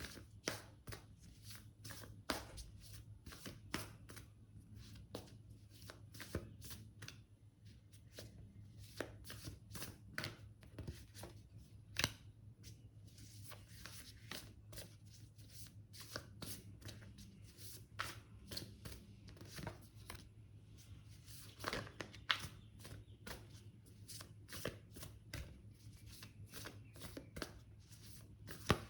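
A tarot deck being shuffled and handled by hand: irregular soft flicks and slaps of cards all the way through, over a faint steady low hum.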